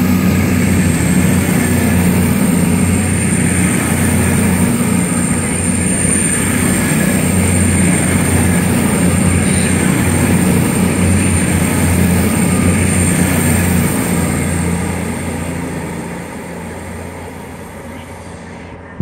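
Avanti West Coast express train running through the station at speed close by: a steady rush of wheels on rail with a low drone and a thin high whine. It fades away from about 15 seconds in as the train clears.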